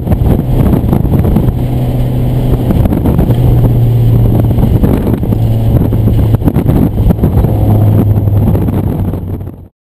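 Mitsubishi Lancer Evolution IX's turbocharged four-cylinder engine running at steady revs, heard from inside the cabin under road and wind noise. It cuts off suddenly near the end.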